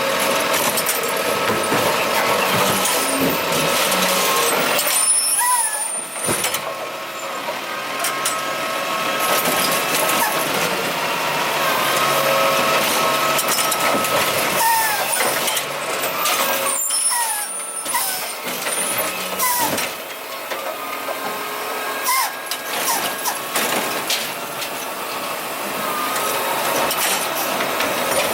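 Curbtender automated garbage truck working its route: engine and hydraulic whine from the cart-lifting arm, with air-brake hisses as it stops and moves between carts.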